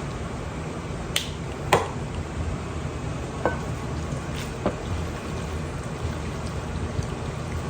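Pasta in a milk-and-cheese sauce simmering in a pot, a steady crackling hiss, with a few sharp clicks of a utensil against the pot, four in the first five seconds.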